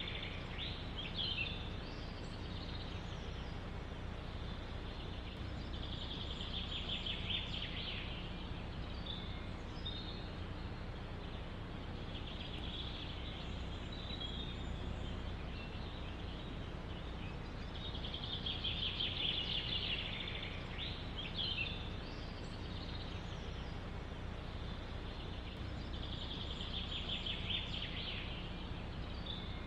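A songbird repeating a short, high trilled song about every six or seven seconds, with scattered chirps in between, over a steady low rumble.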